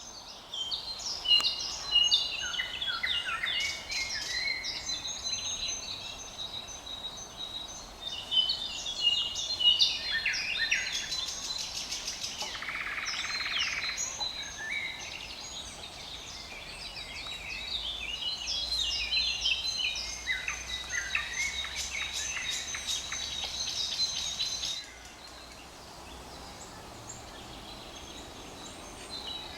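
Thrush nightingale singing: phrases of rapidly repeated whistled notes, clicking series and trills, with a rattling note about 13 s in. The song pauses about 25 s in.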